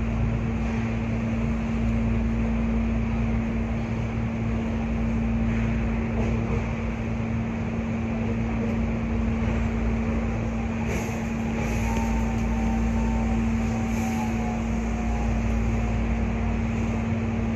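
Steady hum and fan noise of a stopped Hankyu 8300 series train's onboard equipment, heard from inside the car: a constant low hum over an even rumble and hiss, with no motion sounds while the train waits at the platform.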